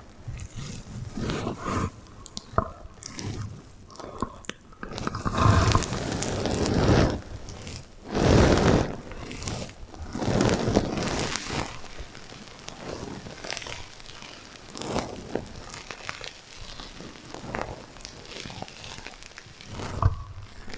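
Sequins on a sequin heart pillow being brushed and scratched, a run of irregular crunchy, rustling swipes, several of them louder, with an echo effect added.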